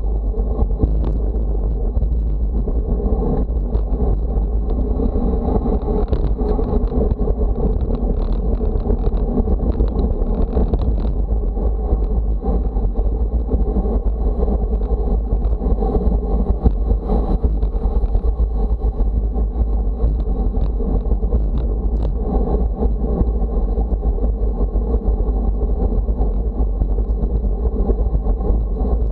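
Wind buffeting the microphone, a loud, steady low rumble with no break.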